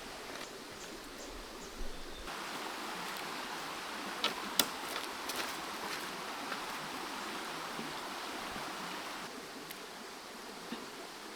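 Creek water running steadily, louder from about two seconds in until about nine seconds, with a few short sharp clicks.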